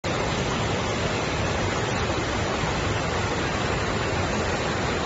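Steady, loud roar of a waterfall's falling water, cutting in abruptly at the start.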